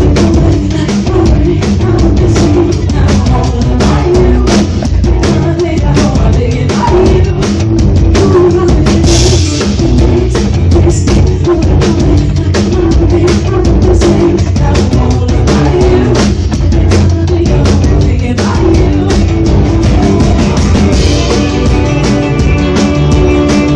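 Live rock band playing, driven by a drum kit with quick, steady drum hits over a full, steady low end.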